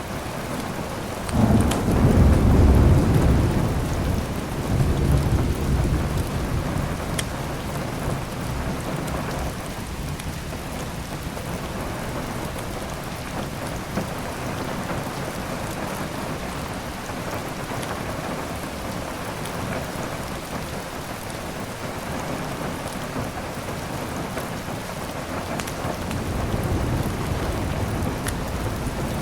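Heavy rain falling steadily while thunder rumbles. The thunder swells loudly about a second and a half in and rolls away over several seconds, and a softer rumble comes near the end. A few faint fire crackles sound over the rain.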